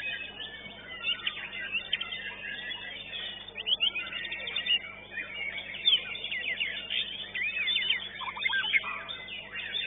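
White-rumped shama (murai batu) singing a fast, varied song of quick whistled notes and trills, in close succession.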